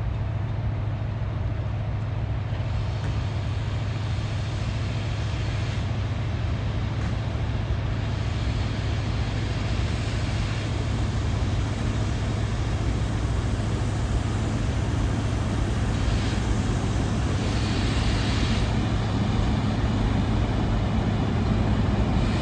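ET41 twin-section electric locomotive standing with its auxiliary machinery running: a steady low hum under a constant rush of noise, growing slightly louder near the end.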